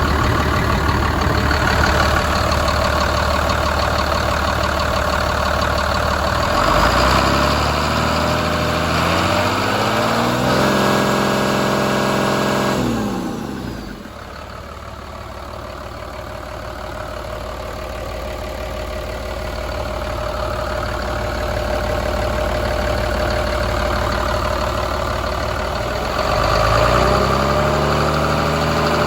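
2009 Mercedes MBE 926 7.2 L inline-six diesel engine running: idling steadily, then revved up and held high for a few seconds before dropping back to idle, and revved up again near the end.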